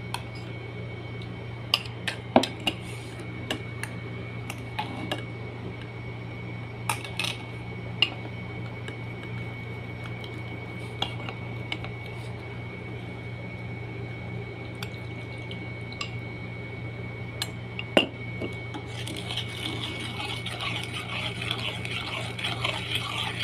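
Dishes and utensils clinking and knocking now and then, the loudest knock about 18 seconds in, then from about 19 seconds a steady rush of liquid pouring or running, over a constant low hum.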